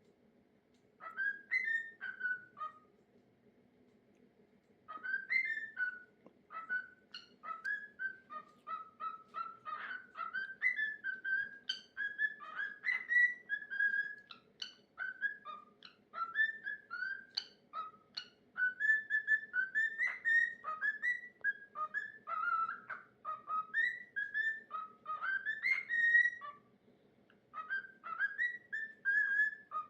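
Cockatiel singing its own whistled song: quick runs of short notes that rise and fall, broken by short pauses near the start and one near the end.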